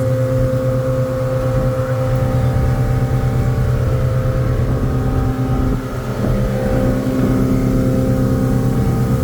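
Motorboat engine running steadily under way, holding an even pitch, with a brief dip in level about six seconds in.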